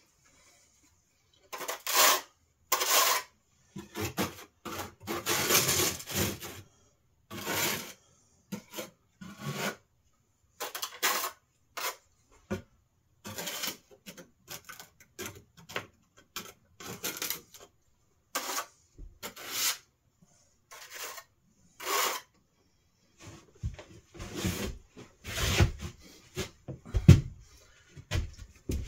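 Irregular bursts of rubbing, scraping and rustling from hands-on work on the chimney insulation, some loud, with a few sharper knocks in the last few seconds.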